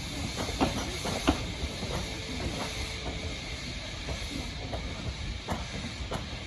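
Steam locomotive hissing steam over a low rumble, with scattered metallic knocks and clanks, the sharpest just over a second in, and a brief steady tone about two seconds in.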